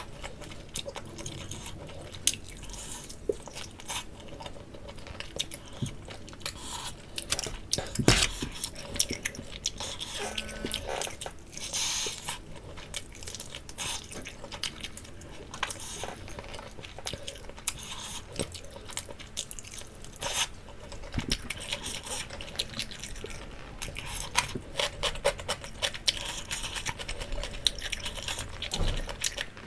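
A person biting and chewing roasted jerk chicken leg close to the microphone: an irregular run of small crackles and clicks, with a sharper knock about eight seconds in.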